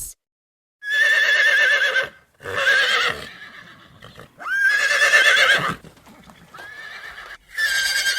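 Horse whinnying several times in a row, each call a wavering whinny about a second long with short breaks between.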